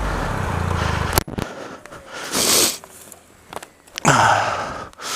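The Triumph Explorer XCa's three-cylinder engine runs for about a second, then cuts out abruptly with a knock. Two heavy, noisy breaths follow from the exhausted rider, the louder one near the end.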